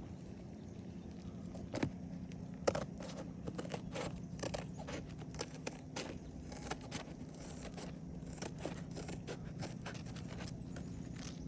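Roofer working on an asphalt-shingle roof: irregular scrapes, rustles and light clicks of shingles and tools being handled, with a sharper knock a few seconds in, over a steady low hum.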